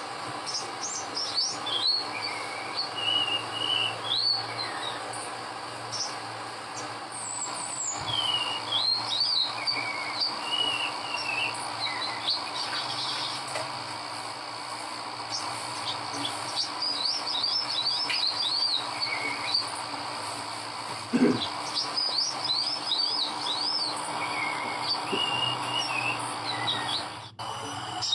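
Sogok ontong, a small nectar-feeding songbird, singing quick high chirps and short rapid trills, over a steady chorus of insects.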